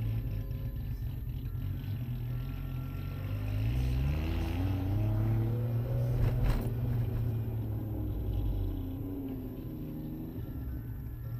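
Suzuki Cappuccino's 657 cc turbocharged three-cylinder engine, heard from inside the car, running at a low drone, then rising in pitch as the car accelerates about four seconds in and easing off again later on. A single sharp knock sounds around the middle.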